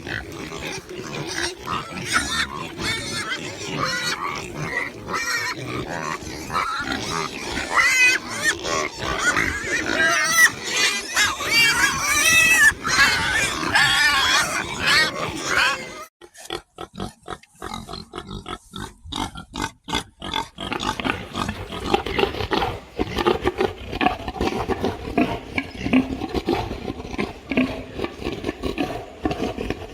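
A group of pigs grunting and squealing, with many high, wavering squeals over the first half. About halfway the sound cuts abruptly to sparser, lower grunting.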